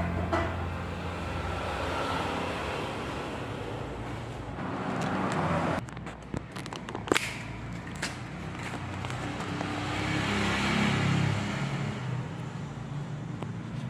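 Small petrol engine of a mini Supra running through its new exhaust, swelling louder twice, with a few sharp clicks about halfway through.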